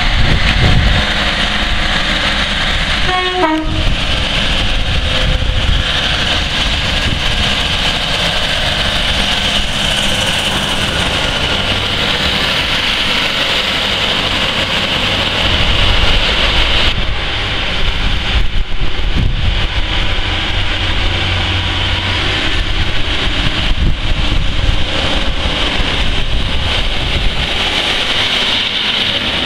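Northern diesel multiple unit running through the station, its wheels rumbling over the rails, with a short horn blast about three seconds in.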